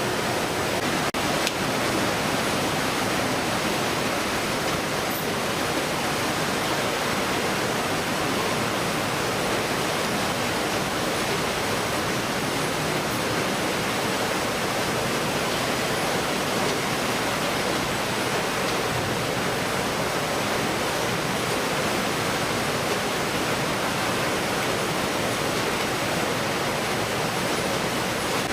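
Steady, even rushing noise with no distinct events, like running water or wind, apart from one brief click about a second in.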